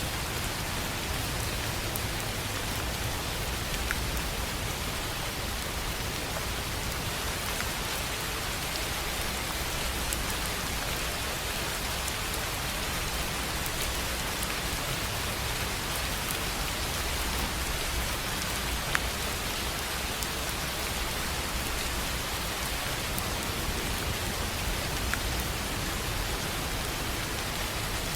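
Steady rain falling on a tin roof, with scattered individual drops ticking through it and one sharper tick about two-thirds of the way in.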